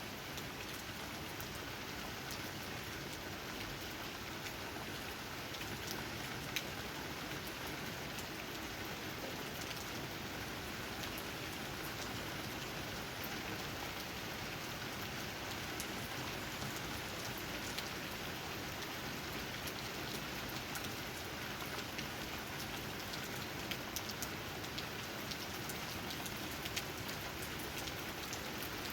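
Steady rain falling on tree leaves, a continuous patter with scattered louder individual drops.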